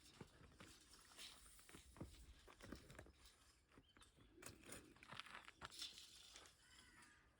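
Near silence with faint, scattered crunches and clicks.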